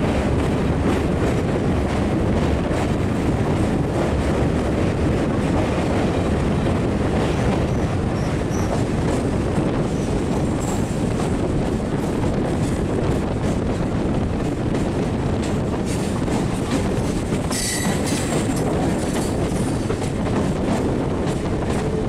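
Running noise of an Indian Railways EMU commuter train, with wheel clatter, heard from its open doorway while a second EMU passes close by on the adjacent track. A brief high-pitched wheel squeal a little past the middle.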